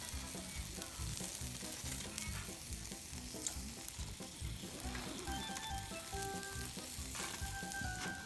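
Food sizzling in a hot frying pan, a steady hiss with small pops. Light background music runs underneath, its melody coming in about five seconds in.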